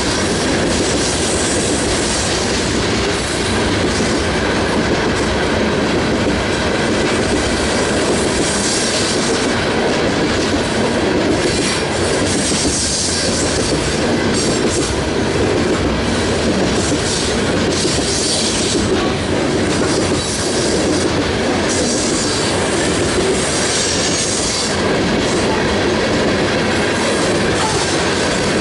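Freight train cars rolling past at close range, the wheels clacking and rumbling over the rails. A high squeal from the wheels comes and goes every few seconds.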